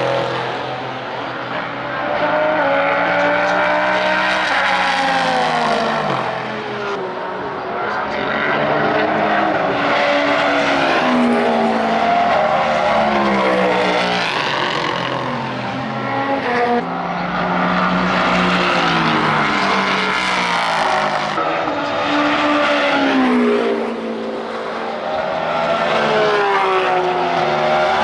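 IMSA sports car race engines running hard as cars go by in succession. Engine pitch climbs through the gears and drops sharply on downshifts, over and over every few seconds.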